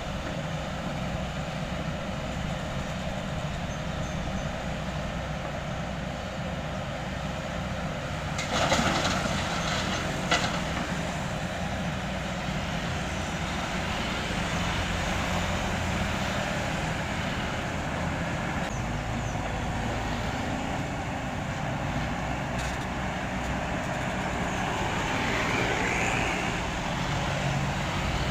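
Heavy diesel construction machinery running steadily, with a short clattering burst about nine seconds in and a single sharp knock just after ten seconds.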